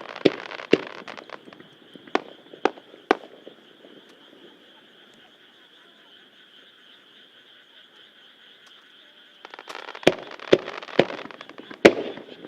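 Aerial fireworks shells bursting in sharp bangs, five in the first three seconds. After a lull of several seconds, a new rapid starmine volley of bangs over dense crackling begins near the end. A steady high chorus carries on underneath throughout.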